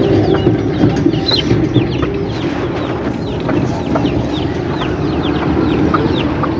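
Many small birds chirping: short, high, falling peeps overlapping in quick, irregular succession, over a steady low hum.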